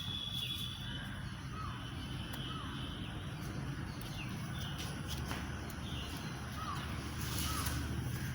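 Several short bird chirps, repeated every second or so, over a steady low rumble.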